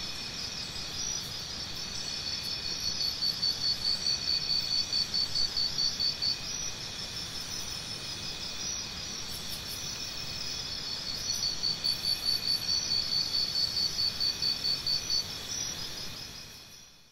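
Crickets chirping in a steady high trill, with louder pulsing chirps about three a second in two spells, fading out at the end.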